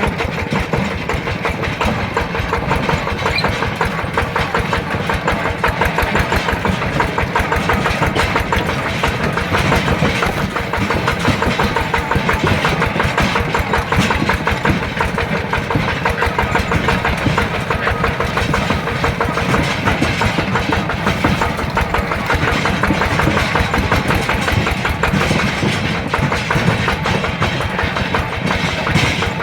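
Yanmar TF120 single-cylinder diesel engine of a mini tractor running steadily with a rapid, even chugging beat.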